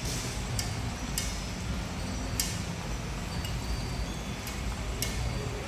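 A few sharp metallic clinks, irregularly spaced, over a steady low rumble.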